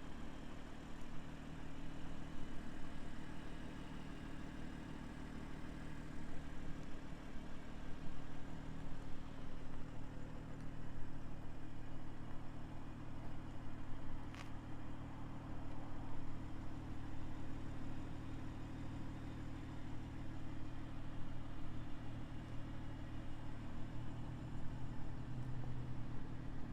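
The BMW M340i's turbocharged 3.0-litre inline-six idling steadily, with one sharp click about halfway through.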